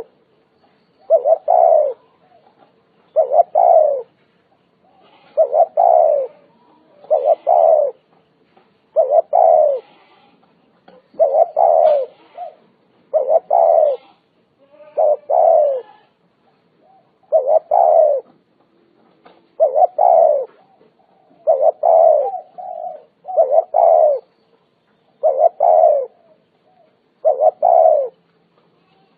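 Spotted dove cooing over and over, loud and close, one phrase about every two seconds. Each phrase is a short note or two followed by a longer coo that falls in pitch.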